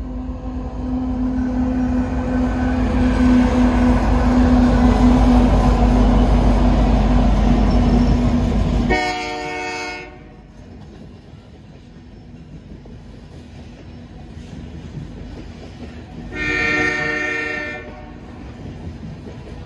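CP Rail diesel freight locomotives pass close by with a loud, steady engine drone that builds over the first few seconds and drops away after about nine seconds. Tank cars then roll past more quietly while the train horn sounds twice: a short blast, then a longer one about seven seconds later.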